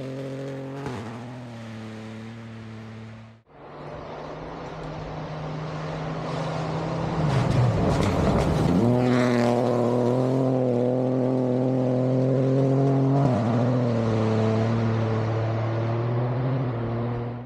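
Rally car engines at high revs on a gravel stage. A first car's engine note changes gear and cuts off abruptly about three and a half seconds in; then another car builds up and passes close by around the middle, its pitch dropping as it goes past, and runs on, shifting gear again near the end.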